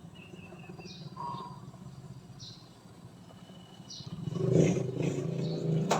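A bird gives short, high chirps about every second and a half over a low, steady engine hum. From about four seconds in, a motor vehicle's engine grows loud as it comes near.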